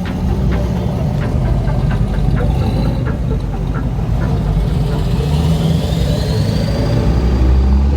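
Car engine running with a steady low rumble; a faint whine rises in pitch about five seconds in.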